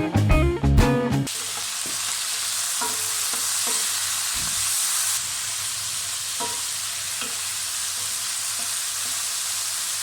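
Food sizzling in a hot pan, a steady hiss with a few light taps and scrapes of a stirring utensil. Background music cuts off about a second in.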